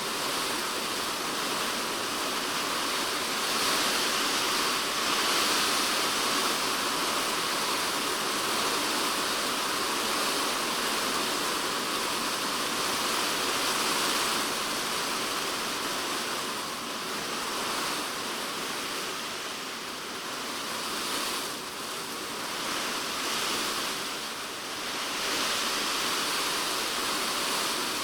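Heavy typhoon rain pelting a polycarbonate shed roof, a dense, steady hiss of drops with the downpour swelling and easing a little over the seconds.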